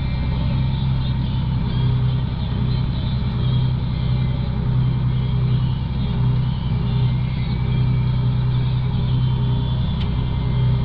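Vehicle engine running steadily, a continuous low drone with a strong hum and no change in speed.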